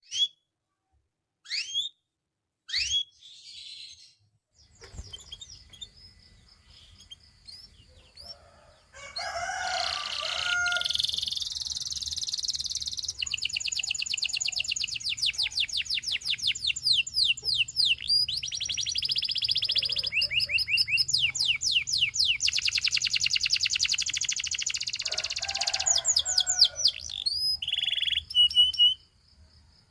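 Domestic canary singing: a few separate sharp chirps in the first seconds, then from about nine seconds a continuous song of fast trills and rolls of rapidly repeated notes, which stops shortly before the end. A faint low hum runs underneath.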